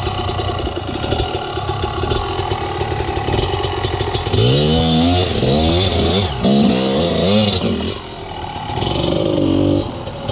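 Enduro motorcycle engine running at low revs, then revved in several quick rising-and-falling surges about halfway through, with one more short rev-up near the end.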